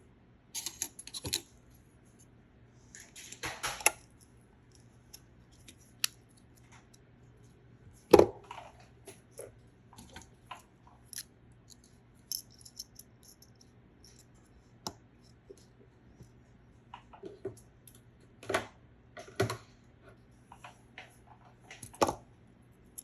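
Irregular clicks, taps and light clatter of small hard objects being handled and set down, over a faint steady hum. The loudest knock comes about 8 seconds in.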